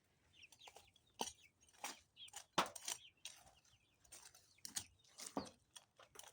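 Young backyard chickens clucking in short, scattered calls as they forage.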